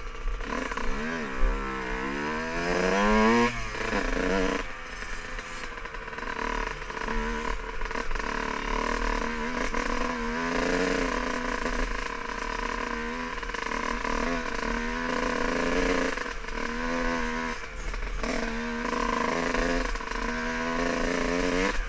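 Dirt bike engine revving, its pitch climbing steeply a few seconds in and then rising and falling again and again as the throttle is opened and eased off.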